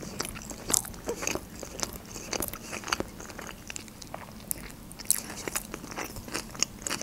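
A mouthful of sushi roll being chewed with the lips closed: a run of short, irregular mouth clicks and smacks.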